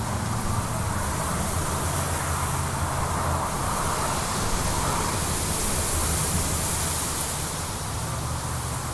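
Steady rumbling roar of a jet aircraft's engines, with a hiss that swells about six seconds in and eases off near the end.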